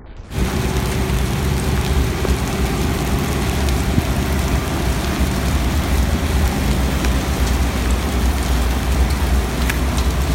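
Heavy rain with a steady low rumble underneath, starting abruptly just after the start.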